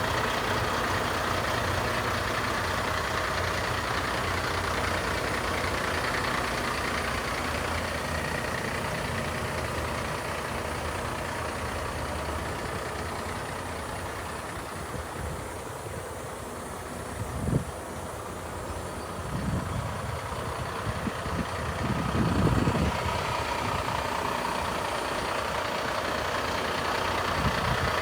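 Mack Granite dump truck's diesel engine idling steadily, with a few short low rumbles a little past the middle.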